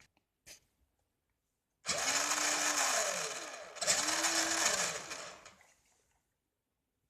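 Electric drive motor and gears of a vintage Tandy Wild Ranger RC monster truck whining under throttle in two runs of about two seconds each, the pitch rising then falling in each, after a couple of faint clicks.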